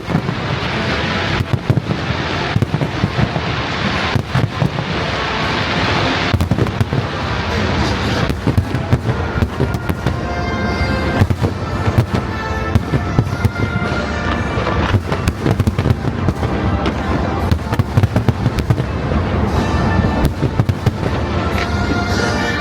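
Aerial fireworks going off in quick succession, a dense run of bangs and crackling with waves of hissing in the first half. Show music plays along underneath and comes through more clearly in the second half.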